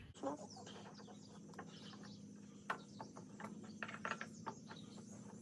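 Faint scattered clicks and ticks of small slimline pen parts being handled and fitted together during assembly, over a low steady hum.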